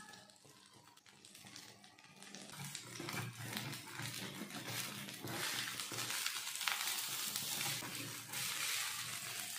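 Ghee or oil sizzling on a hot tawa under bread idlis, faint at first and growing louder about three seconds in, with a metal turner scraping and shifting the idlis on the pan.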